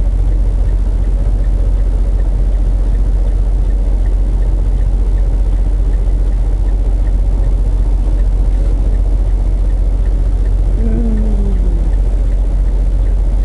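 Semi truck's diesel engine running with a steady, loud low rumble, heard from inside the cab.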